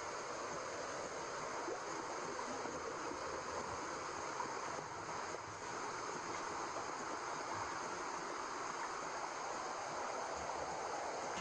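Steady white-noise shushing, a womb-sound track for lulling a baby to sleep, even and unbroken with a water-like rush.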